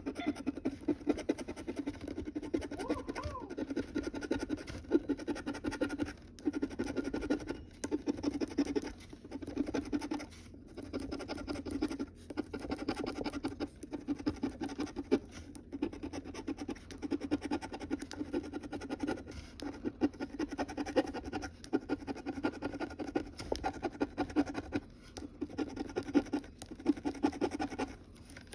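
Scratching the coating off a scratch-off lottery ticket: rapid back-and-forth strokes in bursts of a second or two, with brief pauses between them.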